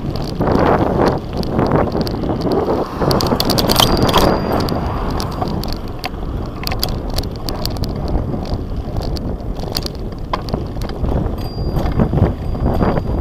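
Bicycle being ridden: steady rumble of the tyres with frequent irregular clicks and rattles from the bike, and wind buffeting the microphone.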